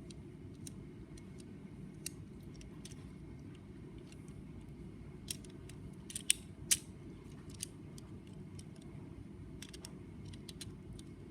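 Light plastic clicking from a Lego Technic model engine's moving parts, the clicks coming irregularly, with two sharper clicks a little past halfway, over a steady low hum.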